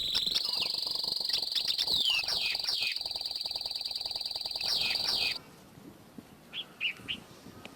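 A bulbul singing: loud falling whistled phrases and a quick trill over a steady high-pitched tone. The tone cuts off suddenly about five seconds in, leaving a few short, fainter notes.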